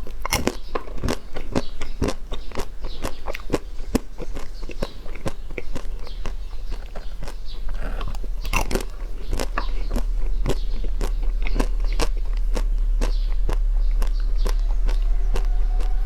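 Close-miked biting and chewing of crunchy food: sharp, irregular crunches, several a second, over a steady low hum.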